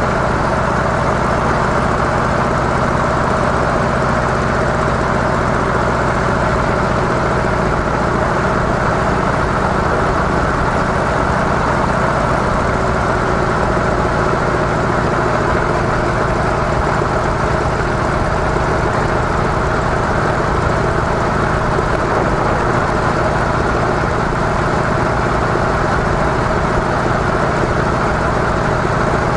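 Harley-Davidson CVO Softail Deluxe's Twin Cam 110 V-twin engine running at a steady pace through its stock mufflers, with no revving or shifting.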